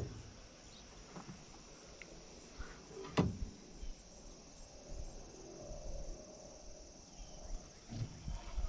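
Insects trilling steadily in a high pitch, with a single sharp click a little over three seconds in.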